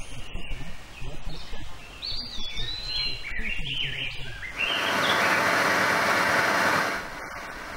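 Wild songbirds singing in a run of quick, gliding chirps over a low rumble. Just past halfway the sound cuts to a loud, steady hiss lasting about two seconds, then drops to a quieter steady noise.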